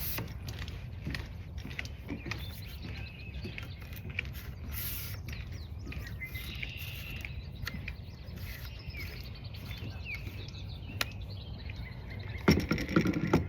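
Small birds chirping in the background over a steady low rumble, with scattered clicks and a louder burst of handling knocks near the end.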